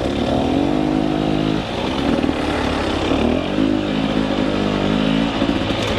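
Two-stroke KTM 300 EXC enduro dirt bike engine running at varying throttle, its pitch rising and falling, with a brief drop about a second and a half in before it picks up again.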